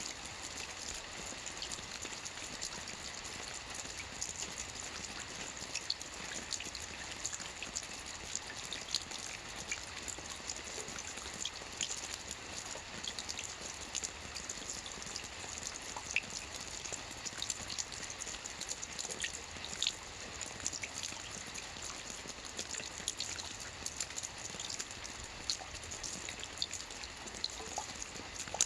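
Steady rain falling on a lake's water surface: an even hiss dotted with many small, close drop ticks.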